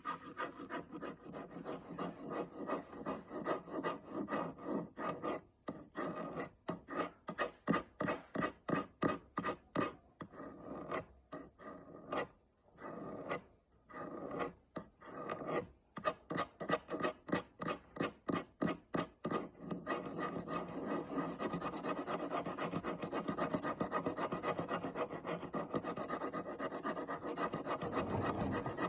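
Fingernails making quick, rhythmic scratching and rasping strokes, about three to four a second. Partway through they speed up into almost continuous rubbing.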